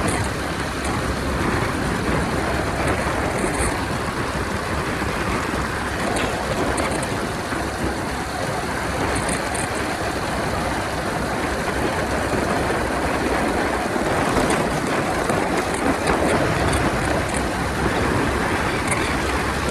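Honda 125 motorcycle riding at highway speed: a steady rush of wind over the microphone mixed with engine and road noise, with no clear engine note standing out.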